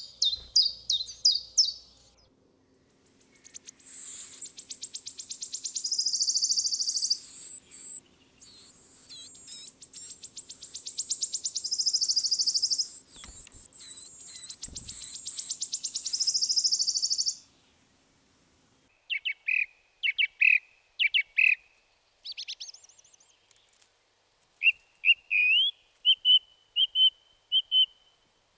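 Songbirds singing: a long, fast, high trill lasting about fifteen seconds, then after a short break a series of short whistled phrases at a lower pitch.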